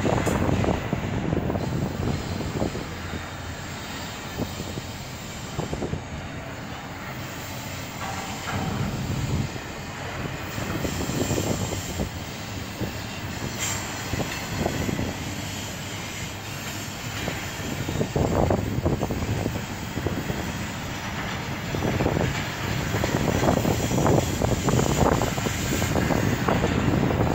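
Double-stack intermodal container train rolling past: a steady rumble of steel wheels on rail, with irregular clanks and knocks from the passing well cars.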